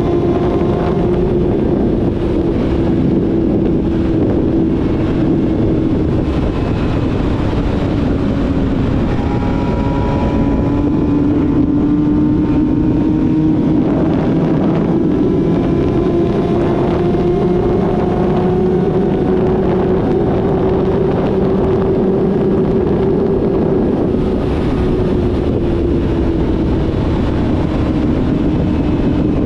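Yamaha YZF-R6 inline-four with a full-system aftermarket exhaust, running steadily while riding, its pitch drifting gently up and down, with wind rushing over the microphone.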